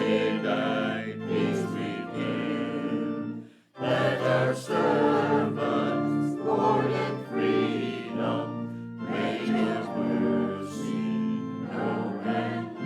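A choir singing a hymn over sustained instrumental accompaniment, with a short pause between phrases just before four seconds in.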